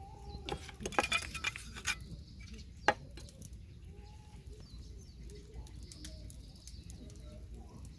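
Utensils and dishes clinking: a run of light clinks in the first two seconds, then one sharp clink about three seconds in. Faint bird calls sound in the background.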